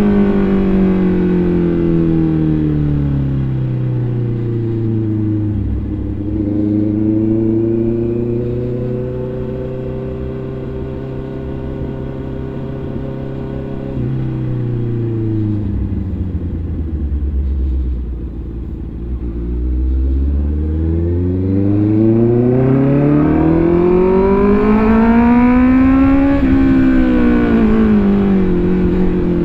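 Motorcycle engine heard while riding. Its pitch falls over the first few seconds, holds fairly steady, drops again about halfway through, then rises steadily to a peak a few seconds before the end and falls away.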